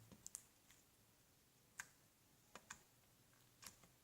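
Thick slime being poked and pressed by fingers, giving faint scattered clicks and pops, about seven in all, each short and sharp.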